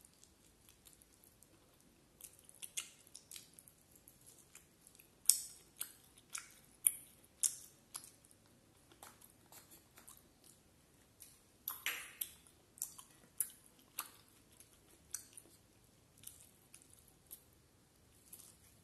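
A person chewing a mouthful of rice and curry close to the microphone, with irregular sharp wet mouth clicks. The clicks are loudest about five to eight seconds in and again around twelve seconds.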